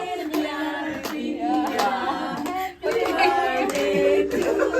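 Singing: a voice holding long notes in a melody, with some clicks or claps, and a short break near the middle.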